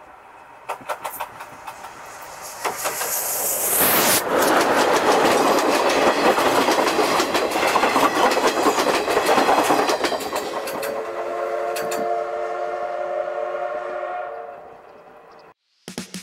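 Steam-hauled passenger train crossing a steel girder bridge: a hiss rises as it arrives, then the coaches' wheels clack fast over the rail joints and the bridge. The sound fades with several steady ringing tones and cuts off near the end.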